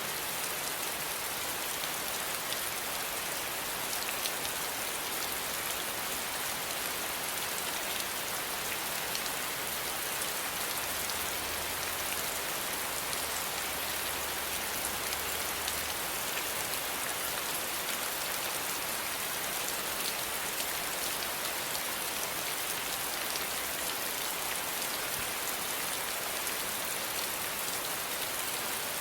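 Steady, even rain, with scattered individual drops ticking through the hiss.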